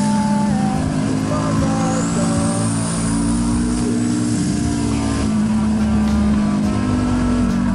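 Turbocharged Suzuki SV650 90-degree V-twin running under way while the bike is ridden on the road. A high whine rises in pitch about two to three seconds in.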